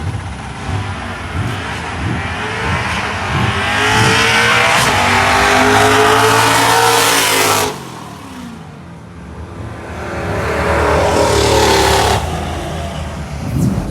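Drag car's engine run at full throttle on a pass: after a few seconds of low, uneven pulsing, the pitch climbs steadily, drops suddenly about halfway through, then climbs again and cuts off near the end.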